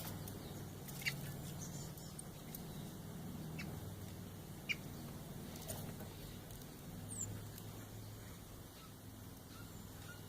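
Steller's jays making a few soft, short clicks and squeaky notes, spaced a second or more apart. A brief high whistle comes about seven seconds in. A steady low hum runs underneath.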